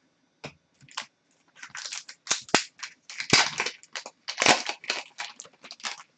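Hockey card pack wrappers and cards being handled: a dense run of crinkling and sharp clicks, busiest from about a second and a half in.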